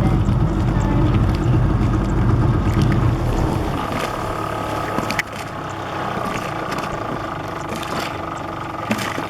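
Boat motor running steadily, then easing off about three and a half seconds in to a quieter, higher steady hum, with a few knocks.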